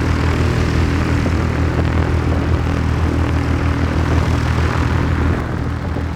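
Steady drone of a light propeller aircraft's engine, with a dense hum under a rushing noise; it drops a little in level and brightness about five and a half seconds in.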